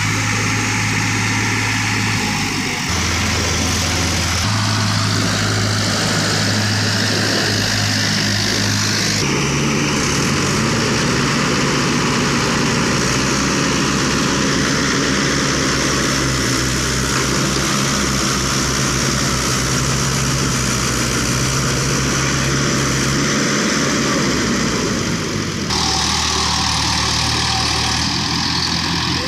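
Tractor engine running steadily with a low hum, the pitch and character of the hum changing abruptly a few times.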